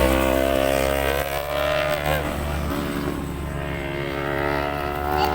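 A motor vehicle's engine running steadily, a low hum whose pitch drifts slightly.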